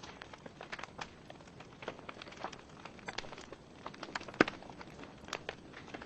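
Wood fire in a fireplace crackling: burning logs give off irregular small pops and snaps, with one sharp, louder pop about four and a half seconds in.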